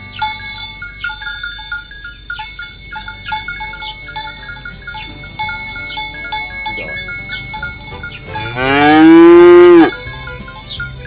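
A cow moos once, loud and drawn out for about a second and a half near the end, its pitch rising and then falling, over a light tinkling melody that plays throughout.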